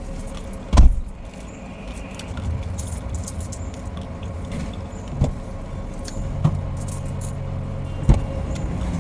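Low steady hum of a car with a loud thump about a second in and a few lighter knocks later.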